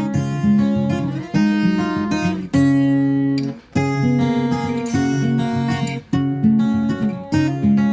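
Background music on acoustic guitar, strummed and plucked chords struck about once a second or so, each ringing out before the next.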